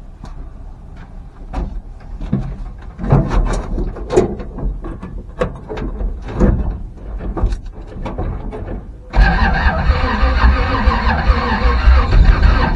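Scattered knocks and clatter, then about nine seconds in the classic truck's engine is suddenly cranked over, a loud, steady mechanical sound that carries on. This comes during attempts to start it after the fuel system was rebuilt, when it seemed to be trying to run but not catching.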